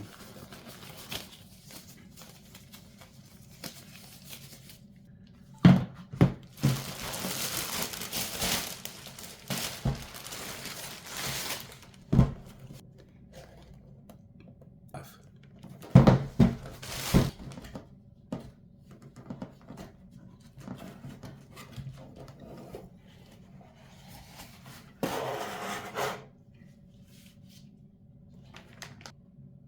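Hands handling PC parts and their packaging: a scattering of sharp knocks and thunks, with a few seconds of rustling about six seconds in and a shorter rustle near the end.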